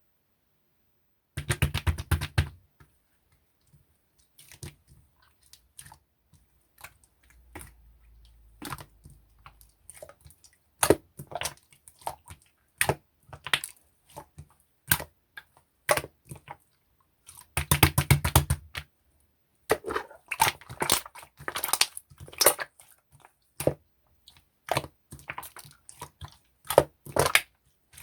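Orange slime being squished and pressed by hand, making bursts of sticky clicking and crackling pops with short pauses between them.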